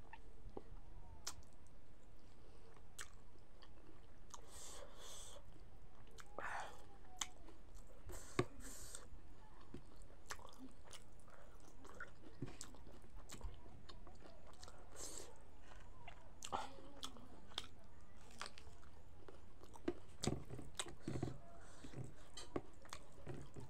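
Close-up chewing and mouth smacks of a person eating rice by hand, in scattered short clicks with a few louder bursts.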